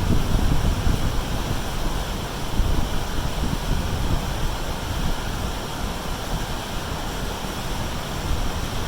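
Creek water rushing steadily, with wind buffeting the microphone as a low, uneven rumble.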